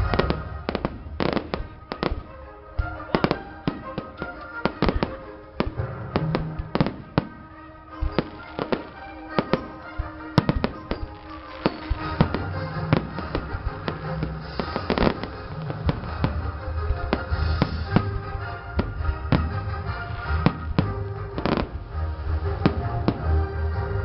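Fireworks going off in quick, irregular bangs, many in a row and sometimes several a second, over music with a heavy bass.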